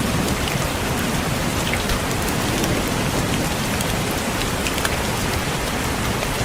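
Steady rain with many separate drops tapping sharply on a window pane, over a constant hiss of rainfall.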